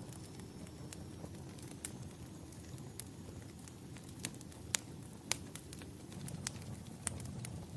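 Wood fire in a fireplace crackling: irregular sharp pops and snaps, the loudest two near the middle, over a steady low rumble.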